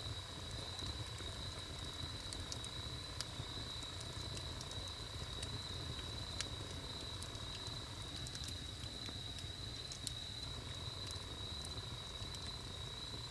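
Wood campfire burning, with sparse crackles and pops over a low steady rumble and a thin steady high tone above.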